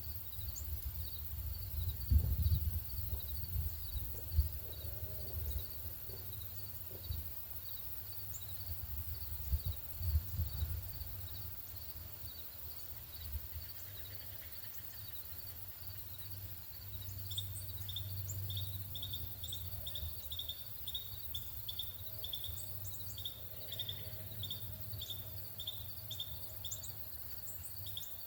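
Small birds chirping: an evenly repeated high chirp runs throughout, and about two-thirds of the way in a faster run of short, falling chirps joins it. A low rumble lies underneath, swelling twice in the first half.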